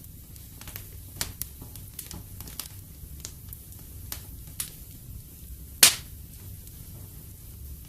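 Wood fire in a fireplace crackling: scattered sharp pops and snaps over a low steady rumble, with one loud pop about six seconds in.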